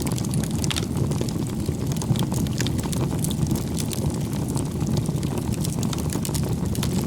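Wood fire crackling and popping, with rapid irregular snaps over a steady low rumble.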